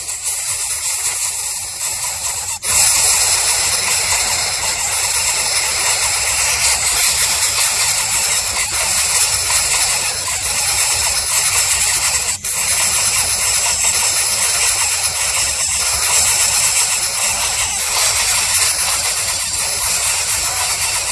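Steady, loud hissing noise, briefly dropping out about two and a half seconds in and again about twelve seconds in.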